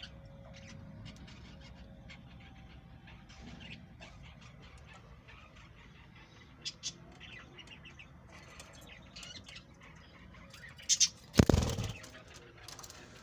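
Budgerigars chirping and chattering in short, quick calls, with a brief loud rustle near the end.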